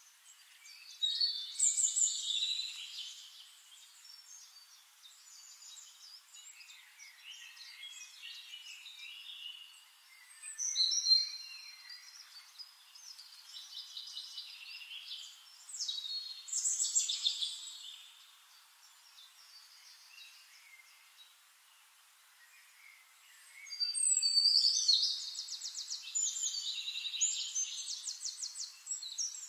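Songbirds singing in separate bursts of quick, varied, high-pitched chirping phrases, with quieter gaps between. Near the end comes a long, fast trill of rapidly repeated notes.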